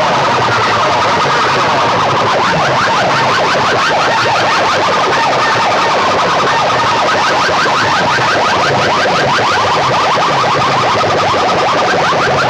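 Horn-loudspeaker PA sound system (mike set) playing a loud electronic siren-like sound effect: fast, repeating pitch sweeps over a dense noisy wash, continuous and heavily driven.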